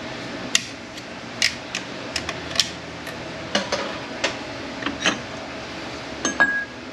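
Metal transmission parts clicking and clinking together as a 722.9 automatic transmission's clutch drum and snap ring are worked on by hand: about a dozen sharp, irregular knocks, one near the end ringing briefly.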